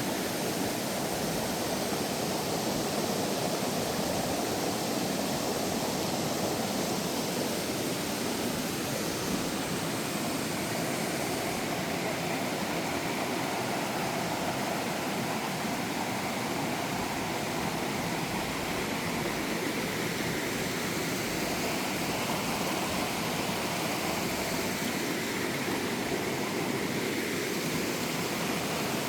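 Valley stream flowing: a steady, unbroken rush of water.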